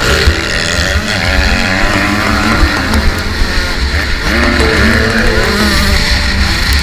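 Motocross bike engines revving, their pitch rising and falling again and again.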